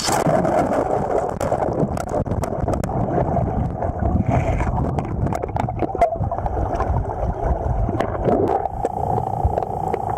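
River water rushing and gurgling, with many small scattered clicks and knocks like stones and gravel being moved.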